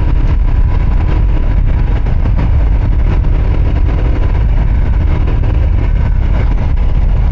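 Royal Enfield Himalayan's 411 cc single-cylinder engine running steadily at low road speed over a rocky dirt track, with scattered knocks and rattles from the bike jolting over the rocks.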